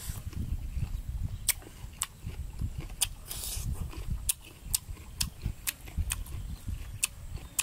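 Close-miked chewing of raw salmon in chili sauce: irregular wet smacking clicks from the mouth, a dozen or so, over a low rumble, with a short hiss about three and a half seconds in.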